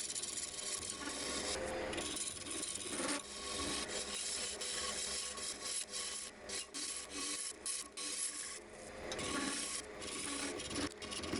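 Abrasive rubbing against wood in uneven strokes with brief pauses, over a steady hum from the running lathe. This is sanding or rubbing down the turned piece.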